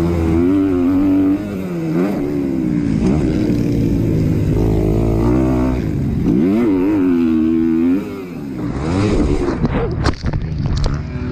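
Motocross dirt bike engine revving hard, its pitch rising and falling as the rider works the throttle and shifts. About eight seconds in the engine note drops away, followed by a run of knocks and scrapes: the bike and rider going down in a crash.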